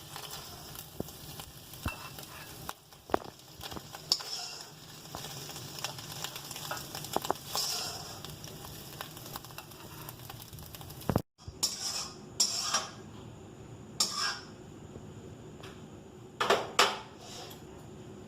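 Food sizzling in a frying pan while a metal utensil stirs and scrapes it, with scattered clinks. About eleven seconds in the sizzle drops away, leaving a few separate scrapes and clinks against the pan.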